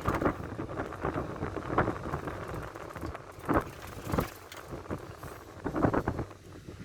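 Ride inside an old Ford route minibus under way: a steady low engine and road rumble with a few sharp knocks and rattles from the body.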